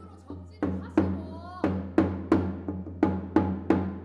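Korean shamanic gut ritual music: drum strikes repeating about two to three times a second, each ringing out and fading, over a low steady drone.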